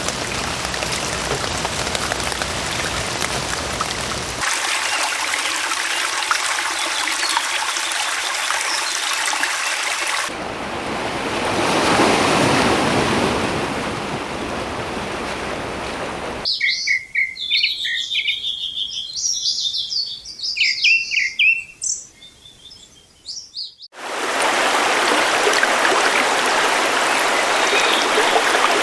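Nature recordings cut together: a steady rush of running water, a rush that swells and fades about ten to sixteen seconds in, then several seconds of birds chirping and singing with little else behind them, then rushing water again near the end.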